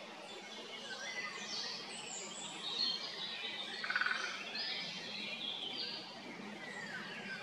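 Several birds singing and calling at once, short whistled and slurred notes overlapping, with one louder rapid trill about four seconds in, over a steady background hiss.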